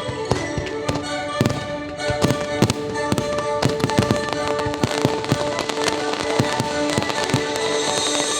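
Fireworks bursting and crackling several times a second over the show's orchestral music, which holds long sustained chords.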